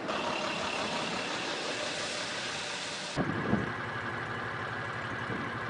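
Steady rushing noise, then after an abrupt change about three seconds in, a couple of knocks and an engine idling steadily.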